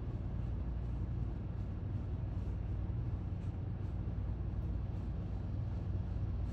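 Steady low-pitched background rumble of an outdoor scene, even in level throughout, with no distinct events.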